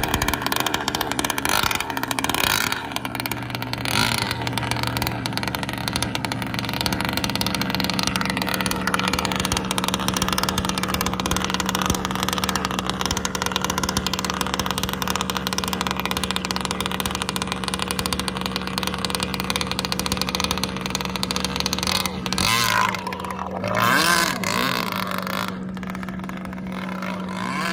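Boat motor running steadily on the water, with a couple of rising and falling revs about 22 to 25 seconds in.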